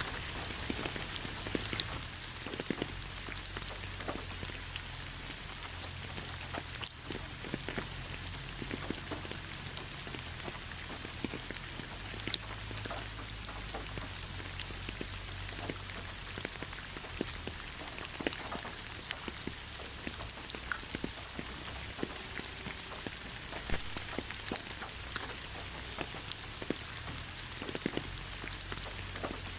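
Steady rain falling, with many separate drop hits scattered throughout.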